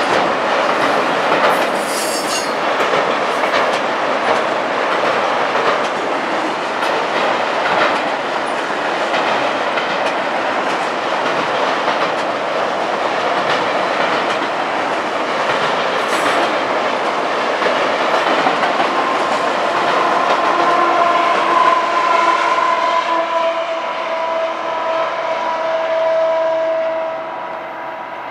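Autorack freight cars rolling past: a steady rush of steel wheels on rail with occasional clicks and clanks. About two-thirds of the way in, a steady chord of high tones joins in and holds. Near the end the sound starts to fade as the end of the train moves away.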